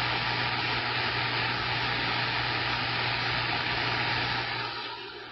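CB radio receiver hissing with static and a steady low hum while a distant station's carrier is on the channel; near the end the hum stops and the hiss drops to quieter background noise.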